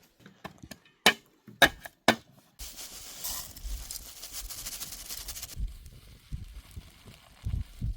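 Three sharp knocks about half a second apart, then about three seconds of hissing noise, with low rumbling near the end.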